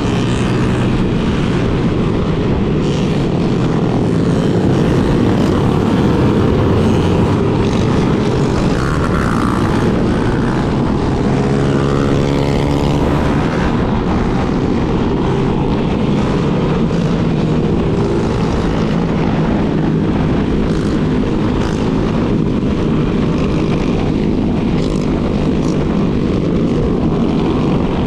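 Yamaha Lander 250 motorcycle engine running steadily while riding, under heavy wind rush on the camera microphone, with other motorcycles riding around it. About halfway through, an engine note rises as a bike revs up.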